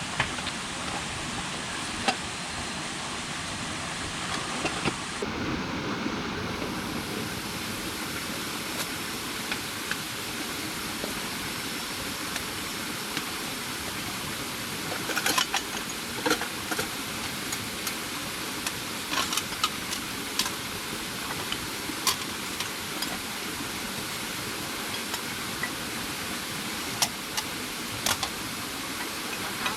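Steady rushing hiss of water, with scattered sharp clicks and taps, a small cluster of them around the middle.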